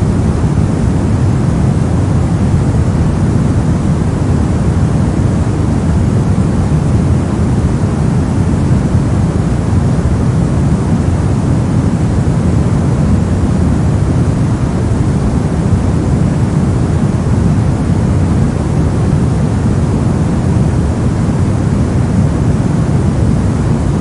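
Steady synthetic soft noise, a white-noise-style sleep sound with most of its energy deep in the bass and a fainter hiss above. It is even and unchanging, with no rhythm or events.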